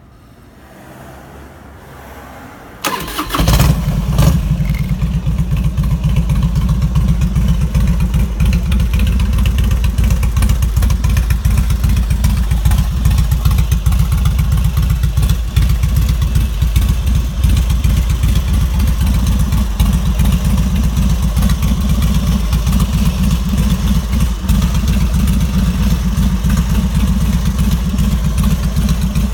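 Harley-Davidson Road King's 1450 cc carbureted V-twin, with fishtail mufflers, starting up about three seconds in. It catches at once and settles into a steady, loud idle with an even low pulsing.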